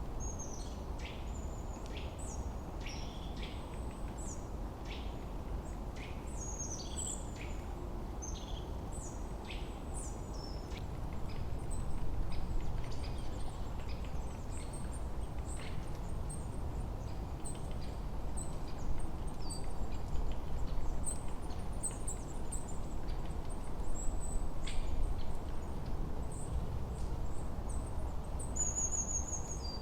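Forest birds chirping and singing, many short high chirps and quick falling whistles, over a steady low rush of wind that swells now and then.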